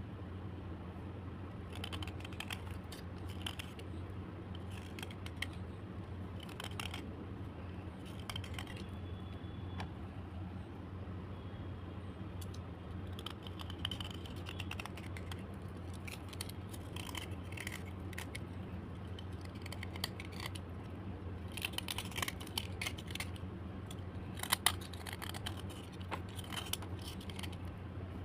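Slate pencils being handled and scraped: irregular dry clicks, taps and scratches, coming thickest in two bunches near the end, over a steady low hum.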